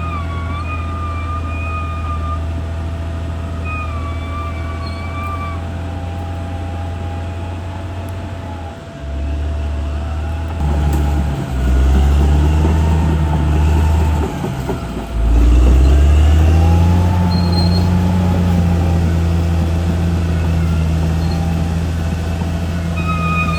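CAT D6R XL bulldozer's diesel engine running with a steady low drone, growing louder under load about halfway through and again a few seconds later. A wavering high whine comes and goes over the engine sound.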